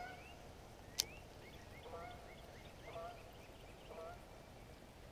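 Birds calling: a repeated low call with several tones, roughly once a second, with short rising chirps between the calls. A single sharp click about a second in.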